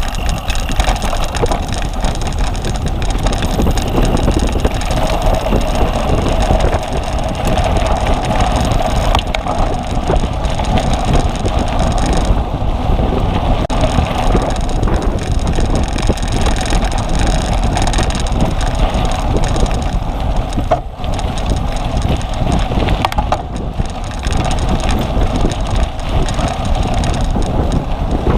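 Cyclocross bike rattling and clattering steadily over rough ground, chain and frame shaking, with wind rushing over the microphone.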